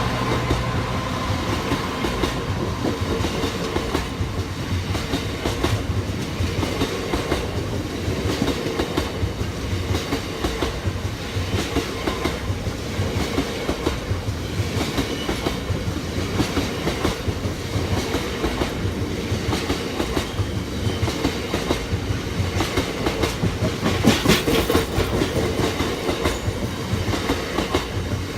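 Train running past the level crossing, its wheels clicking rapidly and steadily over the rail joints with a constant rumble, and a brief louder rush about 24 seconds in.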